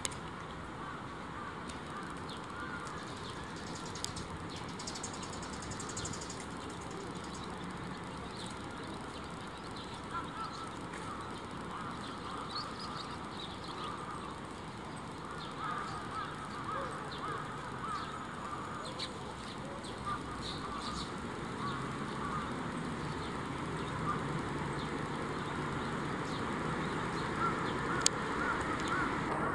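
Scattered bird calls, duck-like, over a steady outdoor background noise, with a sharp click about four seconds in and a louder one near the end.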